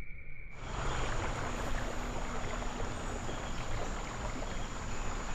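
Creek water running, a steady even rush that starts abruptly about half a second in, with a thin steady high-pitched tone above it.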